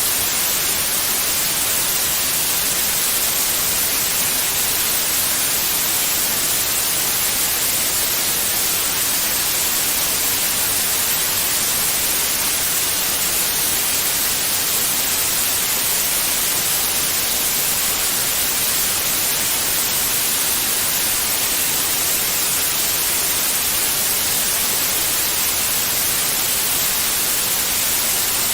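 White noise: a steady, unchanging hiss, brightest in the high frequencies, played as a calming sound for babies.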